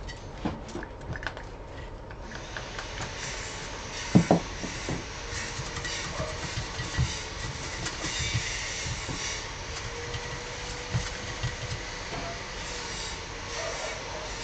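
A steady rushing hiss that comes in about two seconds in and carries on, with scattered small clicks and taps and one louder knock about four seconds in.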